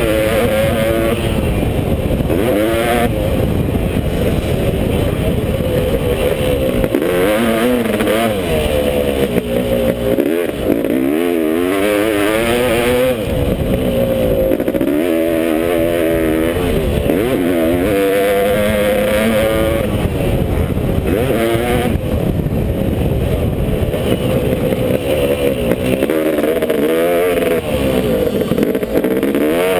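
Two-stroke Honda CR500 single-cylinder motocross engine under hard riding, its pitch climbing sharply and dropping back again and again as the throttle is opened and shut through gear changes and corners.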